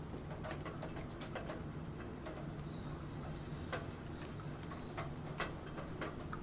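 Computer keyboard typing: irregular keystroke clicks, a few a second, with one sharper click about five seconds in. Under them runs a steady low background of rain.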